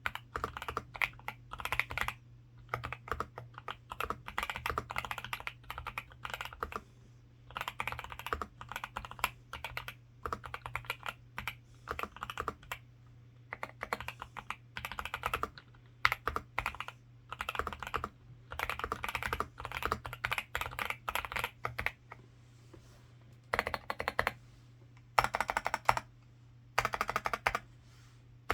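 Zuoya GMK87 mechanical keyboard with Outemu Cream Pink linear switches being typed on in rapid bursts of keystrokes with short pauses. About two thirds of the way through, the steady typing stops and single keys with stabilizers are struck in a few separate short bursts. A faint low hum runs underneath.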